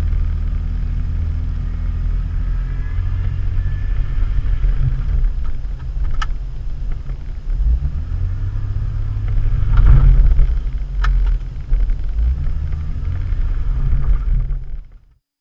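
Off-road SUV engine running with a steady low rumble, swelling louder about ten seconds in. Two sharp knocks come through, one near the middle and one a little after the swell, and the sound cuts off abruptly just before the end.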